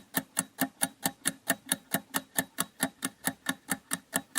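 Countdown timer sound effect ticking evenly, about four to five ticks a second, like a fast clock.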